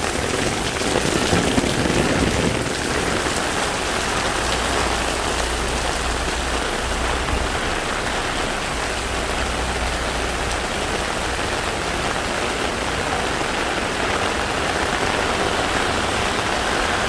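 Heavy rain pouring steadily, hitting the street and an umbrella held overhead.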